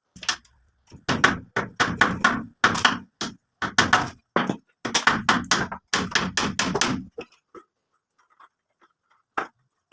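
Hammer blows in quick succession, about three a second, stopping about seven seconds in, then one more blow near the end.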